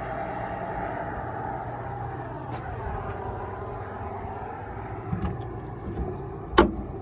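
Steady engine rumble, then a sharp metal clack near the end as the hood latch on a Peterbilt 389 is released before the hood is tilted forward.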